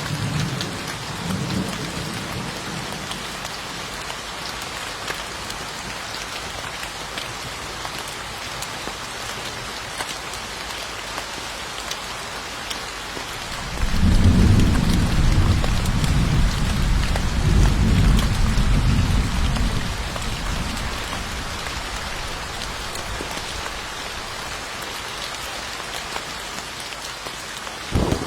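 Steady rain falling with an even hiss. A low rumble of thunder fades out at the start; a louder roll of thunder comes in about halfway through and dies away over several seconds.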